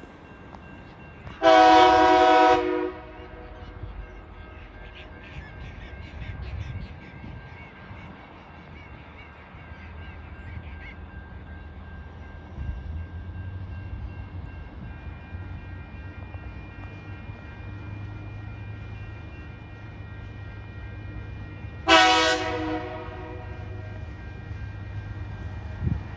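TasRail TR-class diesel locomotive sounding its horn in a long blast, then the low rumble of its engine building as the train approaches, and a second long horn blast near the end.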